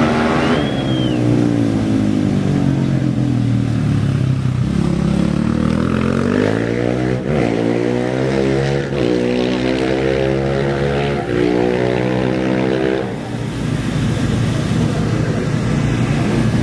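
Off-road race vehicle engine accelerating away. Its pitch falls over the first few seconds, then climbs through the gears in about four rises, each cut by a short drop, until the note gives way to a steadier engine noise near the end. A brief high whistle-like tone comes about half a second in.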